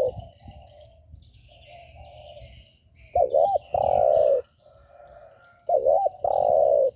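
Spotted dove cooing its 'gù' call: two loud phrases, each a quick double coo followed by a long falling note, about two and a half seconds apart. Fainter cooing and small birds chirping sound in the background.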